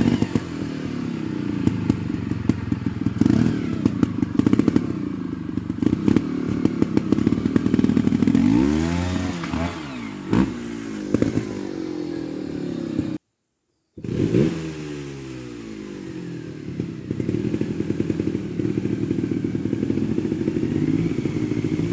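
Trials motorcycle engine running at low revs with repeated throttle blips that rise and fall, over clattering knocks from the bike. The sound breaks off briefly about two-thirds of the way through.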